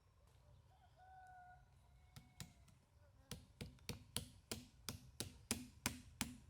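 A run of sharp, faint clicks at about three a second, starting a few seconds in, like repeated snipping or tapping at work.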